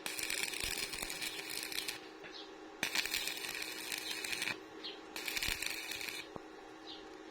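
Electric arc welding: three bursts of crackling, sizzling arc, each starting and stopping abruptly as the weld is struck and broken, over a steady low hum.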